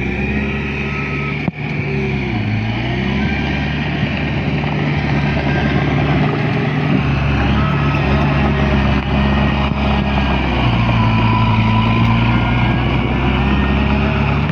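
Heavy diesel engines of a bulldozer and dump trucks running, their pitch dipping and recovering a few times as the machines work under load.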